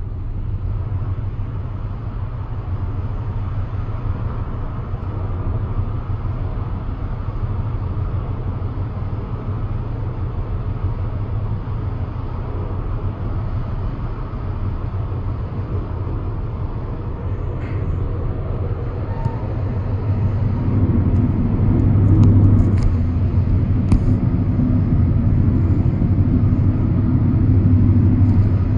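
Passenger train running along the track, heard from inside the carriage as a steady low rumble. It grows louder about two-thirds of the way in, with a few faint clicks.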